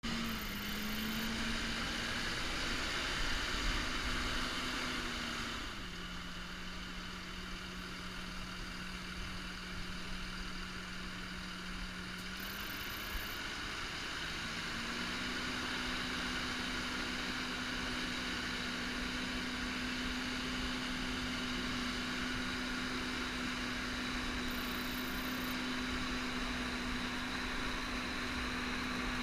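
Fendt 720 tractor engine running steadily while pulling a five-furrow reversible plough. Its note drops for several seconds about five seconds in, then rises again near the middle.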